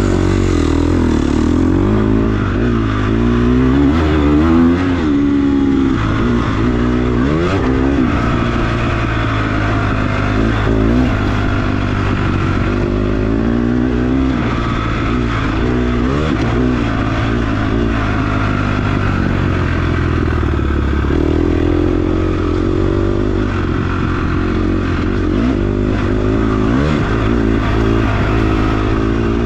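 Dirt bike engine under hard off-road riding, revving up and dropping back over and over as the rider works the throttle and shifts.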